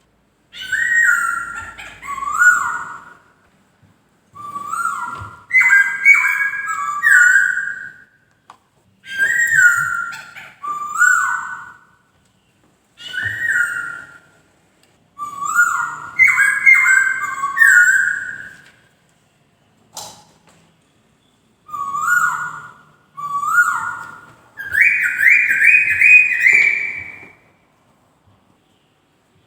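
Poksay (laughingthrush) singing: about seven loud phrases of clear, rising whistled notes, each one to three seconds long with short pauses between. A single sharp click sounds about two-thirds of the way through.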